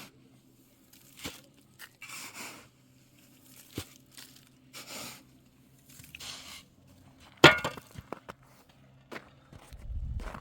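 Slow footsteps crunching, roughly one step a second. About seven and a half seconds in comes a single sharp, loud knock, followed near the end by a low rumbling.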